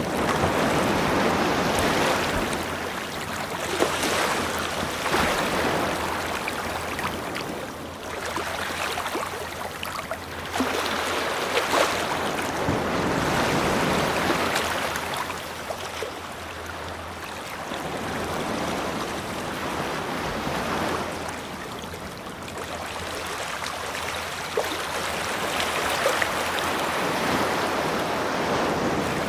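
Ocean waves washing onto a beach, a hissing surge that swells and falls back every few seconds.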